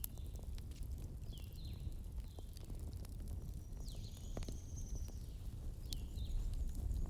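Wood fire crackling, with scattered sharp pops over a low steady rumble. A bird chirps several times, short gliding calls, with one longer high note about four seconds in.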